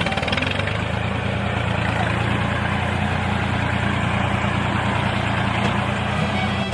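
Small engine running steadily with a fast, even pulse, typical of a DIY mini tractor's motor.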